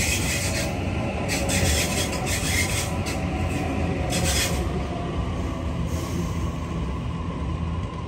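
Electric double-deck passenger train moving past close by: a steady low rumble of wheels on rail, with bursts of high hissing and squealing rail noise during the first half that then ease off.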